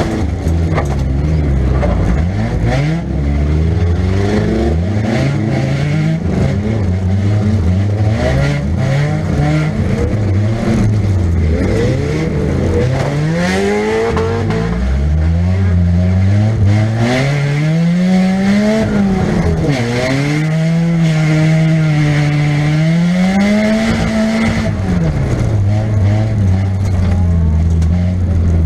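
A Nissan Pulsar's 1.8-litre four-cylinder engine heard from inside the car, revving up and down over and over as the driver accelerates, backs off and changes gear. Sharp knocks and rattles come through now and then, mostly in the first half.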